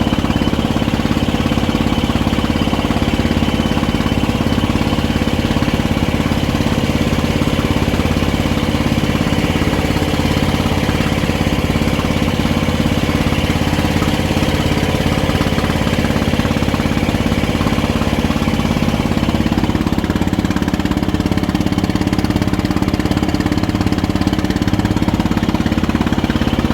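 Engine of a klotok motorboat running steadily, with an even, continuous drone; its pitch shifts slightly about twenty seconds in.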